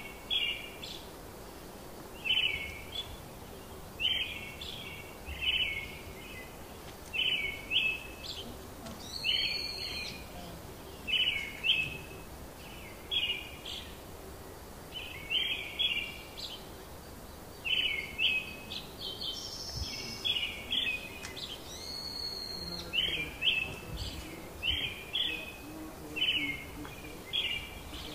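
Songbirds calling: one bird repeats a short, high chirping phrase every second or two, and now and then a higher, thinner call from another bird joins in. A low, steady outdoor background sits underneath.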